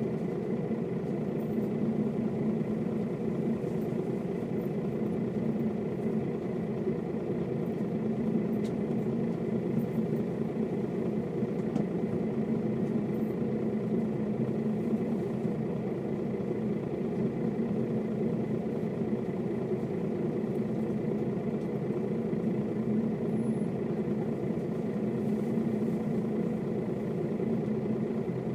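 Mercedes-Benz O407 city bus's inline-six diesel engine running at a steady, even pitch with no revving or gear changes.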